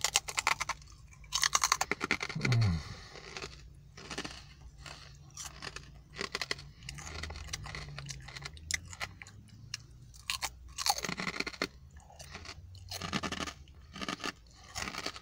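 Crisp pork scratchings being crunched and chewed close to the mouth: loud crackling crunches in the first few seconds, then steadier chewing with further bursts of crunching later on.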